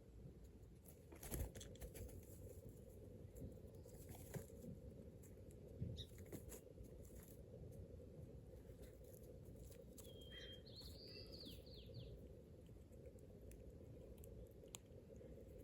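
Faint scattered ticks and scratches of squirrels foraging at a seed block, over a low steady background rumble. A short bird call of a few quick notes comes about ten seconds in.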